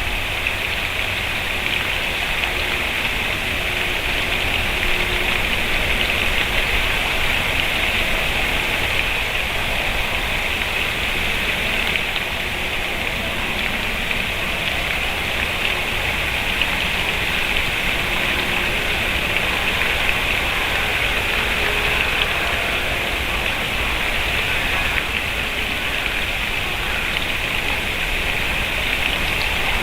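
Steady, even hiss of background noise, brightest in a high band, with no distinct calls or knocks standing out.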